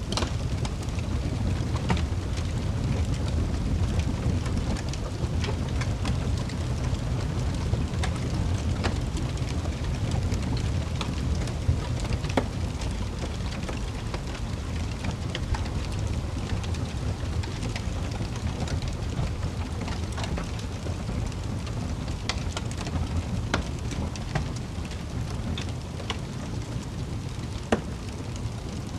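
Wood fire crackling in a fireplace: a low steady rumble of flames with scattered sharp pops and snaps every second or so.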